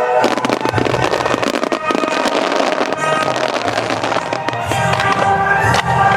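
Aerial fireworks going off in quick succession, with sharp bangs and crackling, over music played through the show's loudspeakers.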